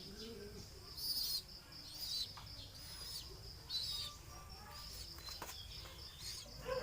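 Pigeons in a loft: short high chirps about once a second, and a soft low coo near the start, over a steady high-pitched tone.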